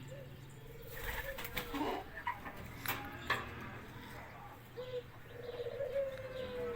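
Birds calling in low, drawn-out cooing notes, several in a row, over a steady low rumble, with a few sharp clicks in the middle.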